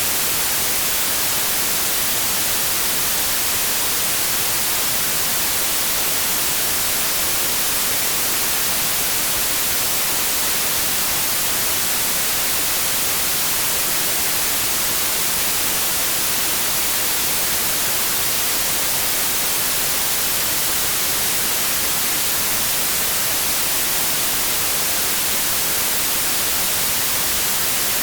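Steady synthetic white noise: an even, unchanging hiss across the whole range, with no variation.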